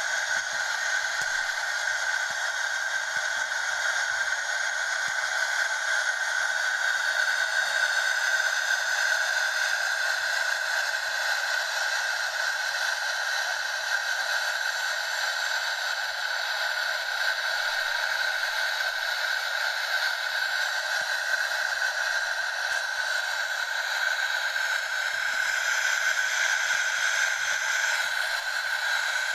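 WashTec automatic car wash running, a steady hiss of spray or blown air.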